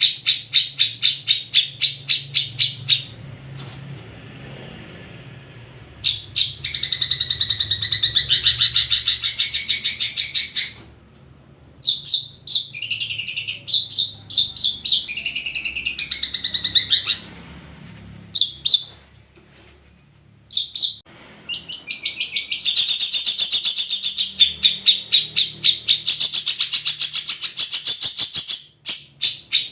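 Long-tailed shrike (cendet) singing: runs of sharp repeated notes at about five a second alternate with long bursts of fast, varied, high chattering song, broken by short pauses.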